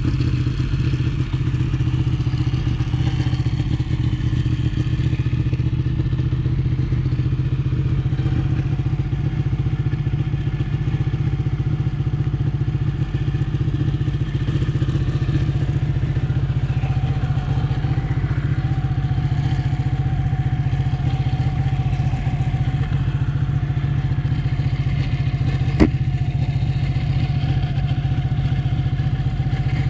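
Ducati 1199 S Panigale's 1198 cc Superquadro V-twin running steadily, its dense firing pulse strongest in the low end, with no big revs. There is one sharp click about three-quarters of the way through.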